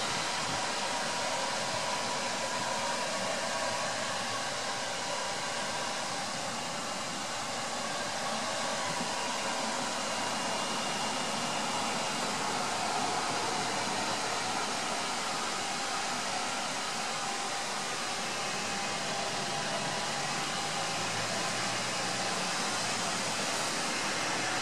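Light rain falling on a wet paved street, a steady even hiss.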